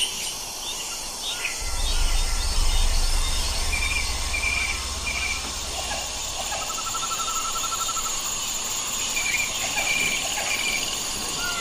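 Small birds calling over a steady drone of insects: short repeated chirps twice, a brief fast trill in the middle, and scattered other notes. A low rumble runs underneath from about two to seven seconds in.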